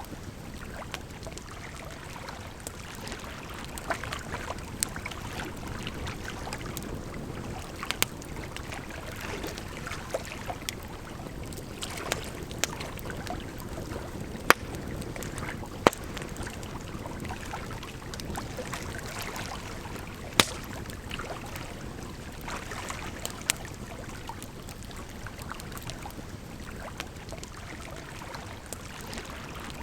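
Campfire crackling, with irregular sharp pops every second or few, over a steady rush of flowing water.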